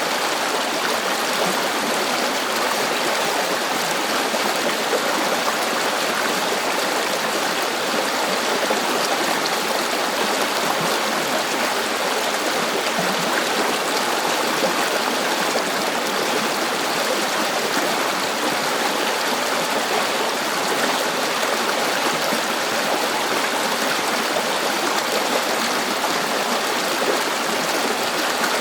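A river flowing, a steady rushing and burbling of running water with no breaks or changes.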